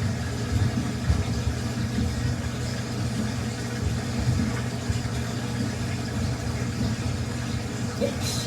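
Samsung washing machine running with a steady low hum and an uneven rumble.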